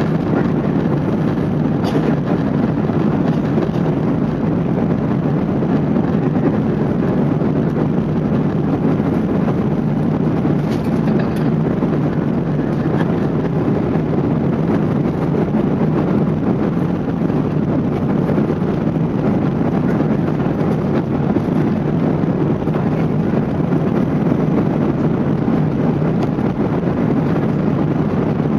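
Airbus A380 cabin noise during take-off or climb: the steady, deep rush of the Rolls-Royce Trent 900 engines and airflow heard inside the passenger cabin, unchanging throughout.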